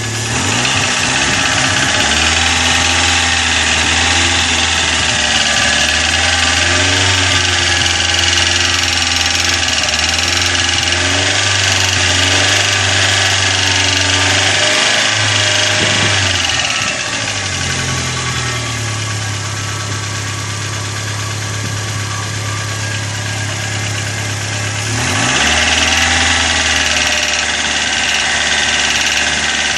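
Chevrolet Corsa engine running, its speed shifting a few times. The noise is what the owner takes for hydraulic lifters slow to fill with oil, blamed on a dirty oil pickup in the sump.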